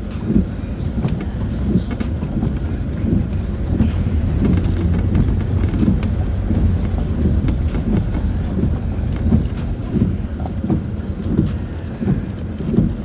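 Cabin noise inside a Land Rover Discovery 4 driving slowly over a rough off-road track: a low, steady engine and drivetrain drone with frequent irregular knocks and clunks from the body and suspension over the bumps.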